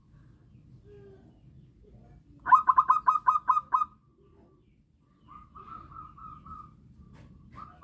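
Zebra dove (perkutut) cooing: a loud, rapid run of about eight short staccato coos a few seconds in, then a softer run of coos, with another starting near the end.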